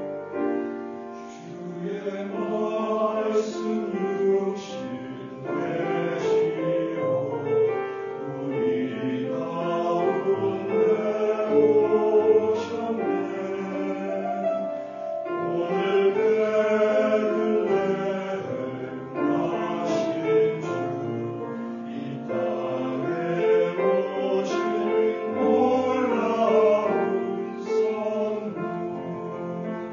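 Church choir singing a hymn together, many voices in sustained, moving chords.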